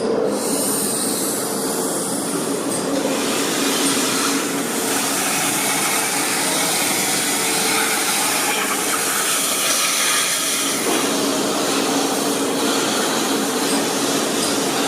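Centralized industrial vacuum system running and sucking up metal shavings and lubricant: a steady rushing hiss of suction over a steady hum.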